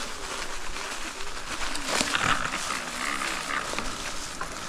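Folding e-bike ridden over a rough, overgrown trail: tyre and brush noise with a wavering whine that rises and falls.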